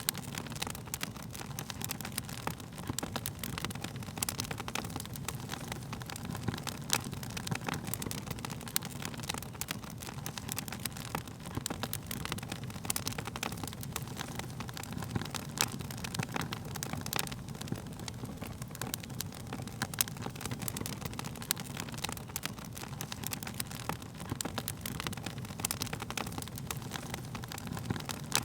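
Wood fire burning, crackling with frequent irregular sharp pops and snaps over a steady low rumble of the flames.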